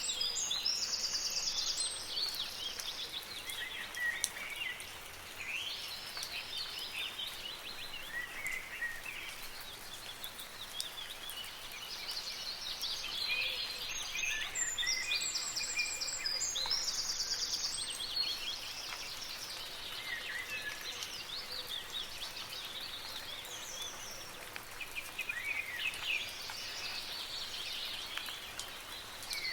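Songbirds singing in bursts of high chirps and trills over a steady hiss of soft rain. A similar burst of song comes back about 13 to 18 seconds in.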